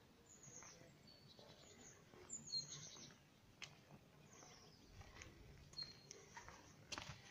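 Small birds chirping: faint, repeated short high calls that slide downward, with a few light clicks in between.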